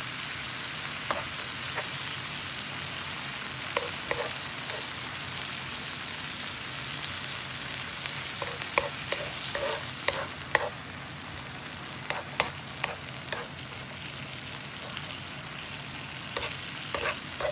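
Cauliflower rice sizzling steadily on a griddle while a wooden spoon stirs and scrapes it, with scattered light taps of the spoon on the griddle, more frequent in the second half.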